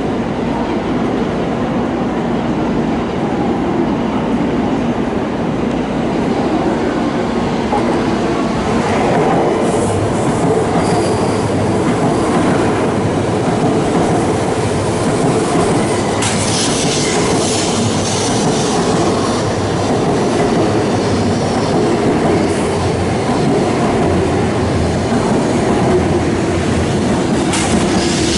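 Shinkansen train moving slowly along a station platform: a steady rumble of wheels on rail, with a few short bursts of high-pitched hiss or squeal.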